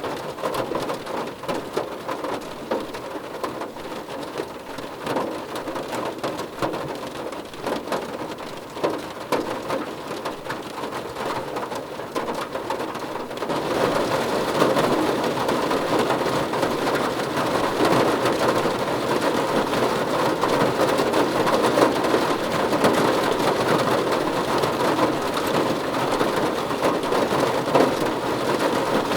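Rain pattering on a car roof, many separate drop taps over a steady hiss. About halfway through it turns heavier and louder.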